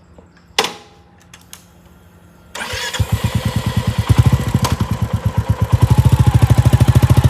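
A sharp click, then the Royal Enfield Classic 350's single-cylinder engine is cranked by its electric starter and catches about three seconds in. It settles into an even, pulsing idle that grows slightly louder near the end.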